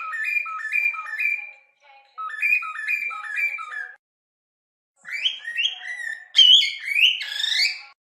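Whistled, bird-like phrases in three bursts with dead silence between them. The first two bursts repeat the same quick stepped run of notes several times; the last, about five seconds in, is a freer run of rising and falling whistles.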